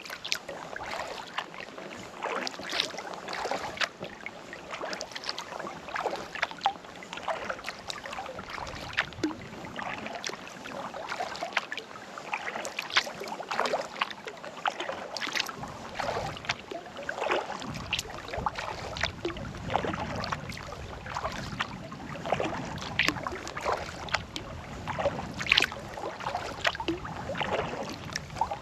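Kayak paddling: the paddle blades dipping into and lifting out of the water, with many small irregular splashes and drips.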